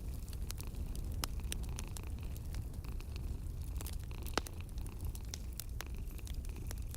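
Fireplace fire crackling: scattered sharp pops and snaps over a steady low rumble, with one louder pop about four and a half seconds in.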